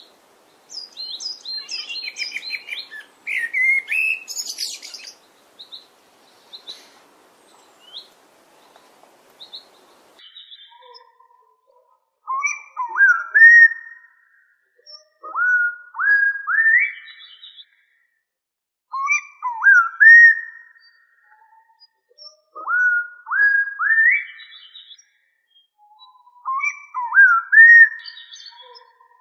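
Birdsong: quick high chirps for the first few seconds, then a whistled phrase of rising notes repeated about every three and a half seconds.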